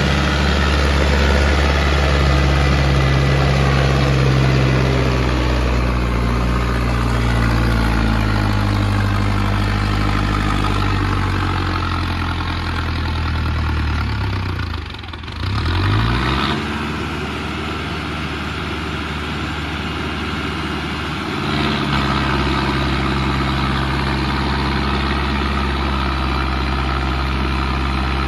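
Mahindra Arjun Novo 605 tractor's diesel engine running hard under load. Its pitch sags slowly, dips sharply for a moment about halfway through, then climbs back and holds steady, rising again in level a few seconds later.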